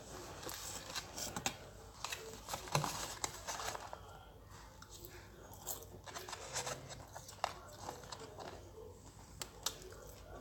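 Chewing of McDonald's french fries, with many small mouth clicks. The paper fry carton rustles as it is handled in the first few seconds.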